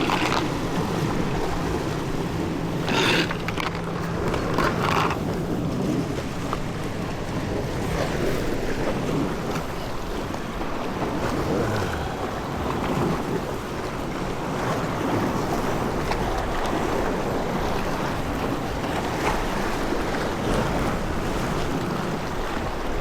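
Wind and waves around a small fishing boat at sea, with wind buffeting the microphone. A low steady hum runs through the first several seconds, and a few short splashes come in the first five seconds.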